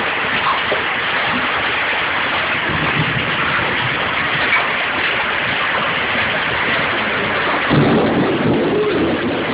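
Heavy downpour of rain and large hailstones, a dense steady hiss of impacts, with a low rumble rising about eight seconds in.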